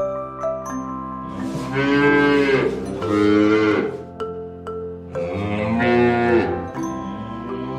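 Cattle mooing: three long, drawn-out moos, the first about a second and a half in, with steady background music underneath.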